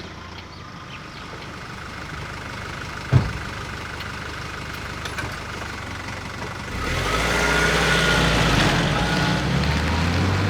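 Nissan Navara D22's YD25 four-cylinder turbo-diesel engine running steadily, with one sharp thump about three seconds in. From about two-thirds of the way through the engine gets clearly louder, as under acceleration.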